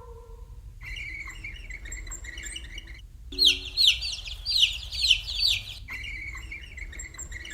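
Baby chicks peeping: runs of short, high, falling peeps, louder from about three and a half seconds in.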